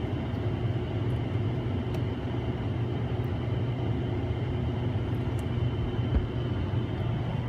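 Steady low mechanical hum with a faint high-pitched whine above it, from a running machine or motor. A couple of faint ticks come in the second half.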